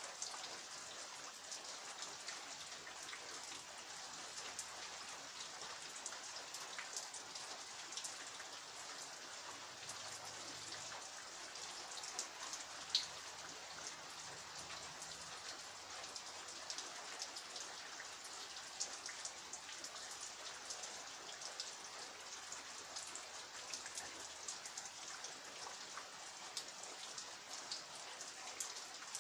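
Steady rain falling, a constant hiss with many separate drops ticking on surfaces, and one louder drop hit about halfway through.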